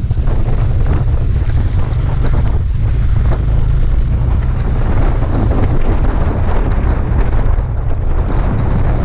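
Wind buffeting the microphone: a loud, steady low rumble that drowns out most other sound.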